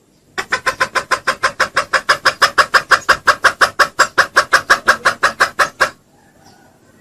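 Junglefowl giving a rapid, even run of loud clucks, about six a second, used as a lure call. The run starts just after the beginning and stops abruptly about a second before the end.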